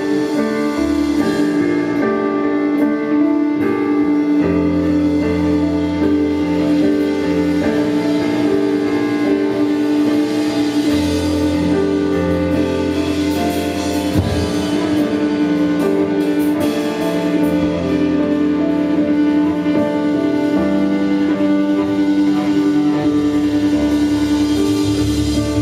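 Rock band playing live, in an instrumental passage: a long held chord over a bass line that changes note every few seconds, with drums.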